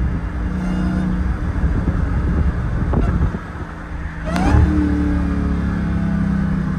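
Car engine running and road noise while driving. The engine eases off about three seconds in, then revs sharply upward about a second later.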